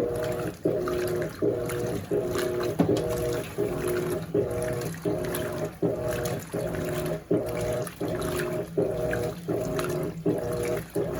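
Top-load washing machine agitating in rinse water: its 1/4 hp WEG motor hums in short, even strokes that break off about every three-quarters of a second as the agitator reverses, with water sloshing.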